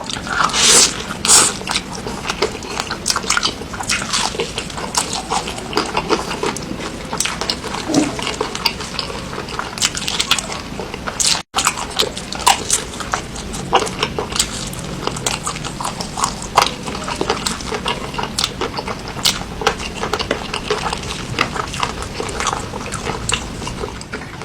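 Close-miked mouth sounds of a person eating chicken: a dense, irregular run of wet chewing smacks and clicks, with a split-second dropout near the middle.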